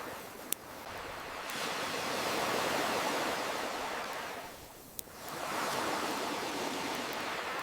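Ocean waves washing ashore in slow surges, one swelling about two seconds in and another after a lull near five seconds, mixed with the sharp pops of a crackling campfire, one about half a second in and one at the lull.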